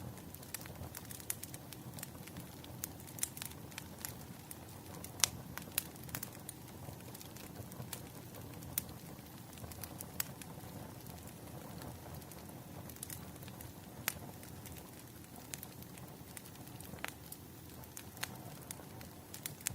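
Wood fire crackling: a soft steady rush of burning with many irregular sharp pops and snaps, the loudest a little after five seconds in.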